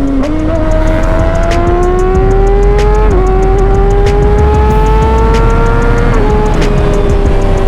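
Kawasaki ZX-6R sport bike's inline-four engine pulling under acceleration, its pitch climbing steadily, with a quick upshift about three seconds in and another drop in revs about six seconds in before it settles. Wind rumbles over the helmet microphone throughout.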